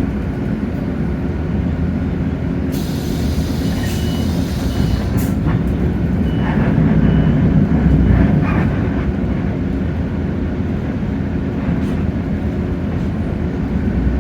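Hino J08E diesel engine and road noise of a Hino RK8JRVA city bus under way, heard from inside the cabin, swelling louder about seven to eight seconds in. About three seconds in, a hiss lasts some two seconds and ends in a sharp click.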